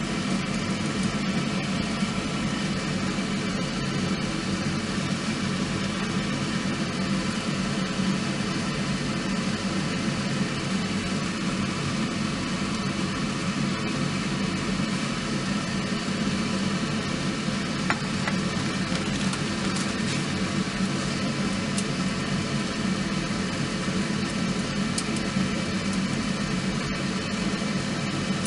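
A steady mechanical hum, like an idling engine, holding several fixed tones without change, with a few faint ticks here and there.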